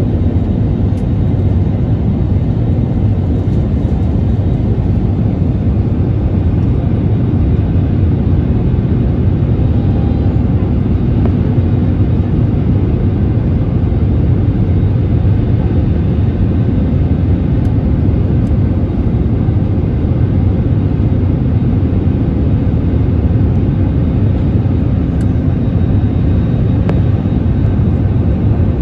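Steady low drone of an Airbus A320neo in flight, heard from inside the passenger cabin: airflow noise and the hum of its CFM LEAP-1A26 engines, even throughout, with no sudden changes.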